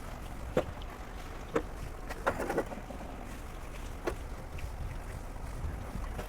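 Hands working heat wrap around an exhaust pipe in a tight spot: a few light knocks and scrapes, a cluster of them about two seconds in, over a steady low wind rumble on the microphone.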